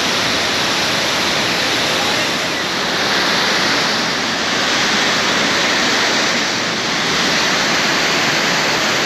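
Waterfall rushing steadily: a loud, even roar of falling water with slight swells.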